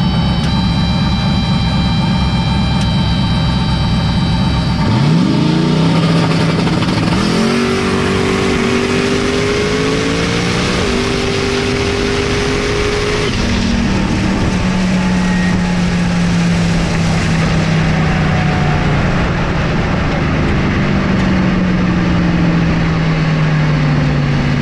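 Second-gen Camaro drag car's boosted V8 holding steady revs on the line, then launching about five seconds in. The pitch climbs sharply and steps up through two gear changes, then drops at about the thirteen-second mark and falls away slowly as the car lifts off and coasts down the track.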